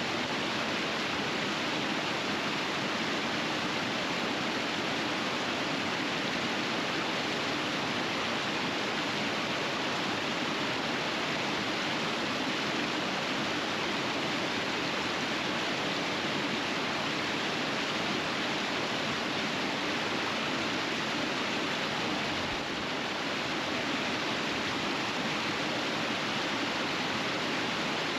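River rapids rushing steadily over rocks: an even, unbroken roar of flowing water.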